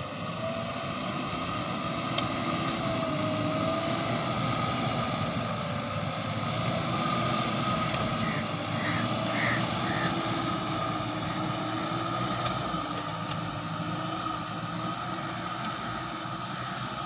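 JCB 3DX backhoe loader's diesel engine running steadily, with a sustained whine over the engine noise and a few short chirps about halfway through.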